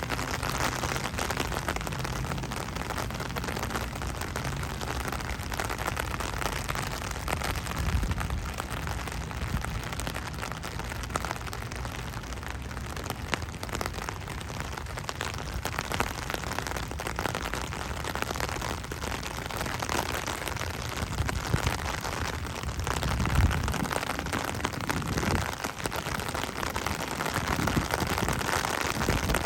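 Steady rain falling as Hurricane Ian arrives, a constant hiss of drops. Wind gusts rumble on the microphone now and then, strongest about a quarter of the way in and again about three quarters in.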